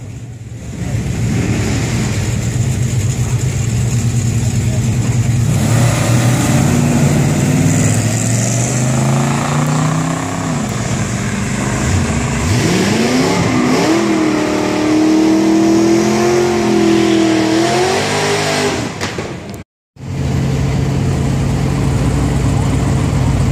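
Studebaker cars idling at a drag-strip start line, then launching down the track. About five seconds in, the engines rev up with rising pitch, dip twice as they shift gears, and hold high revs for several seconds. After an abrupt cut near the end, another Studebaker idles at the line.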